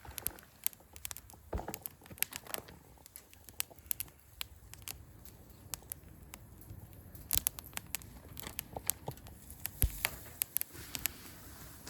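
Wood bonfire crackling, with irregular sharp pops and snaps and a couple of louder snaps in the second half.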